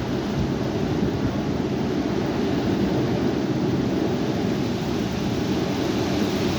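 High wind blowing steadily, a dense rushing noise with no breaks.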